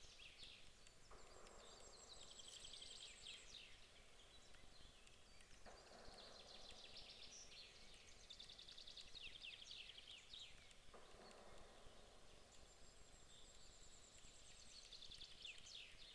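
Songbirds singing faintly: high trilled phrases repeated every few seconds, over a soft hiss that comes and goes in spells of a few seconds.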